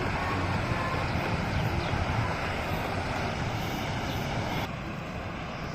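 Steady roar of a waterfall plunging into the sea, an even rushing noise; about three-quarters of the way through it drops slightly in level and changes character abruptly.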